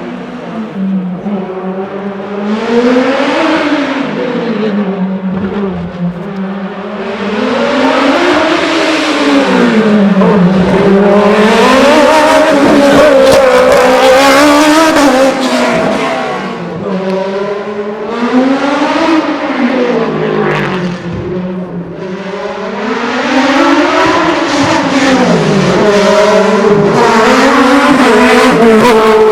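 Small racing car engine revving hard, its pitch climbing and then dropping again and again as it accelerates, lifts and shifts; it grows louder toward the middle and again near the end.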